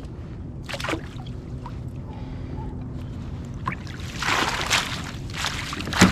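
Water sloshing and splashing at a kayak, with a rushing splash about four seconds in and a few light knocks, over a steady low hum.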